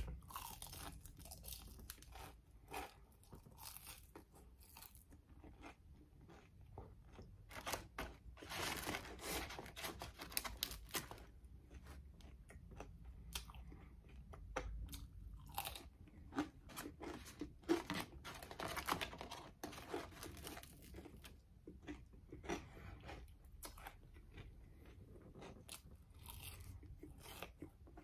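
Crispy fried food being bitten and chewed, with irregular crunches all through and two denser runs of crunching, about a third of the way in and again past the middle.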